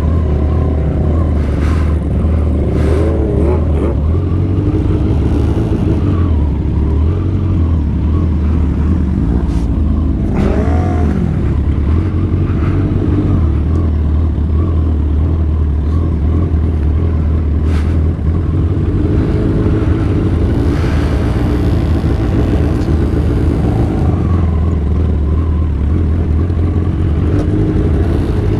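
Motorcycle engine running steadily while riding, with a heavy low rumble; the pitch rises and falls briefly near the start and again about ten seconds in as the throttle changes.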